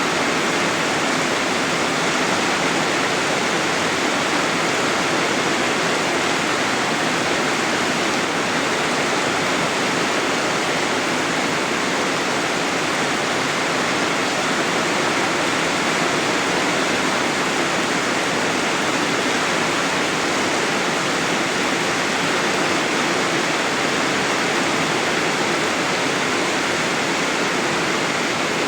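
Heavy rain pouring steadily, a dense even hiss of rainfall without distinct drops or pauses.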